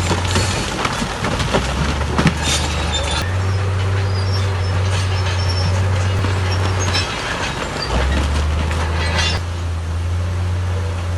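Crawler bulldozer's diesel engine running under shifting load, its low note stepping up and down a few times, with metallic clanking and squealing from the steel tracks, loudest about two to three seconds in and again near nine seconds.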